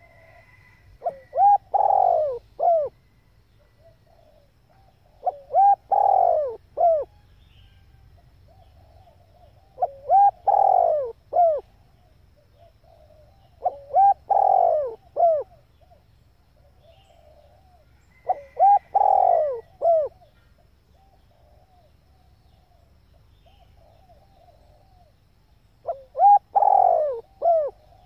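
Female spotted dove cooing, six loud multi-note coo phrases about four seconds apart with softer cooing notes between them. It is a call used to rouse a young male dove being trained as a decoy.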